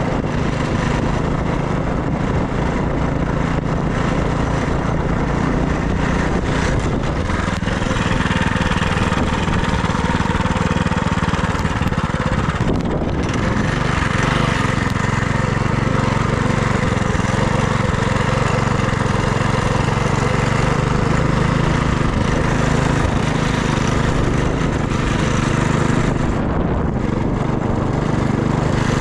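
FRP GMB100 minibike's small single-cylinder engine running under way at a fairly steady speed, its pitch shifting slightly up and down, over a steady rush of wind noise.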